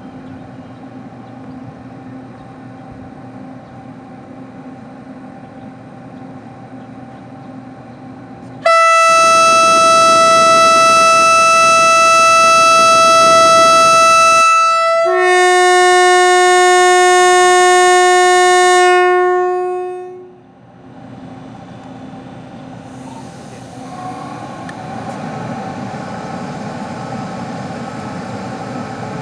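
Train horn sounding two notes, loud: a long high note of about six seconds, then a step down to a lower note held about four seconds before it cuts off. A steady hum runs before it, and a steady rushing noise builds up after it.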